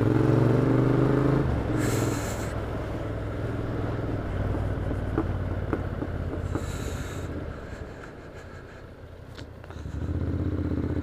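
Motorcycle engine with a Vance & Hines aftermarket exhaust, rising in pitch as it accelerates for the first second and a half, then easing off to a lower, fading run before picking up again near the end. Two short hisses come in at about 2 and 7 seconds.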